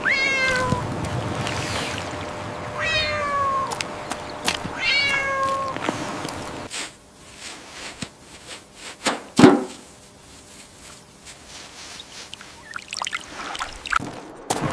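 Three meow-like animal calls, each falling in pitch, then scattered clicks and one loud, sharp, falling sound about nine and a half seconds in.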